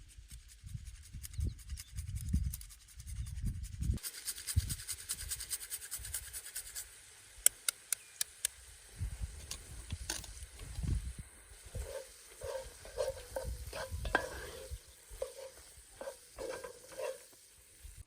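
Spoon stirring greens in a pan over an open fire, with low uneven thumps at first; from about four seconds in, a steady sizzling hiss with sharp clicks.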